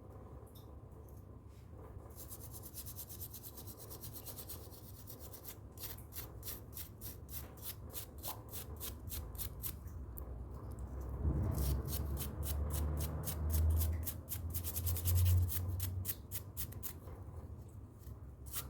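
Hands working a wire joint in a refrigerator's wiring: rapid rasping and rubbing strokes, the sound of wire being stripped, twisted and wrapped. A low hum joins in about two-thirds of the way through.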